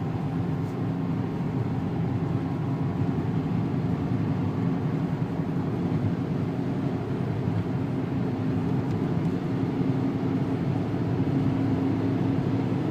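Renault 2.0-litre turbo diesel engine running at low, steady revs, heard inside the car's cabin, under the even hiss of tyres on a wet track.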